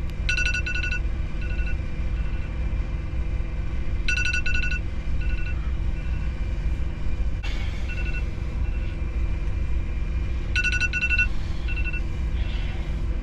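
Semi-truck engine running with a steady low rumble. Three times a run of quick electronic beeps sounds, each followed by a few slower beeps, and a short hiss comes in about halfway.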